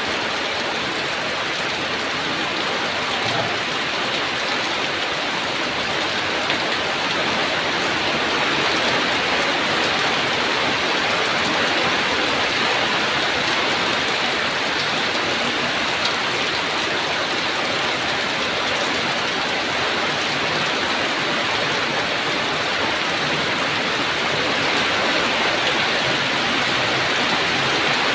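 Heavy rain falling steadily: a dense, even hiss of rain on surfaces with no let-up.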